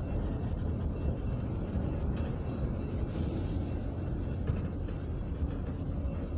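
Freight train's tank cars rolling past at close range: a steady low rumble of steel wheels on the rails, with a couple of faint clicks.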